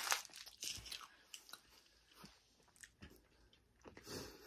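Faint close-up chewing of a mouthful of soft chicken wrap: scattered small wet mouth clicks, a little busier in the first second, then only a few sparse ticks.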